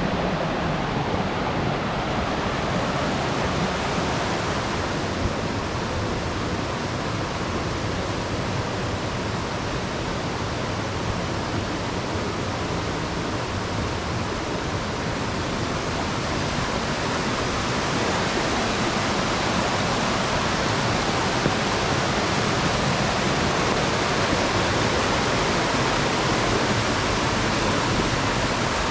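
Steady rush of falling and flowing water from a mountain gorge's waterfall and stream, a little louder in the second half.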